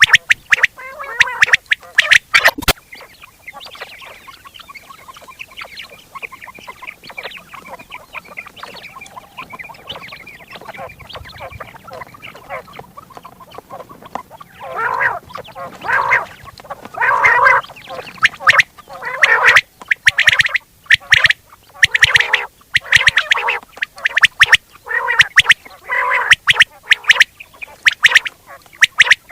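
Quail calling: a burst of sharp, rapid calls, then softer continuous chatter, with loud calls coming back in quick repeated groups from about halfway through.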